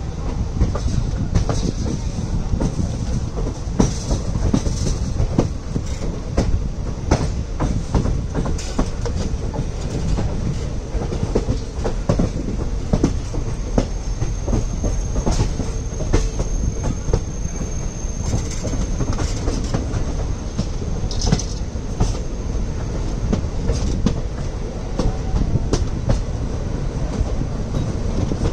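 Passenger train coaches rolling into a station, wheels clacking over rail joints and points with a steady rumble. A thin high wheel squeal sounds for several seconds in the middle.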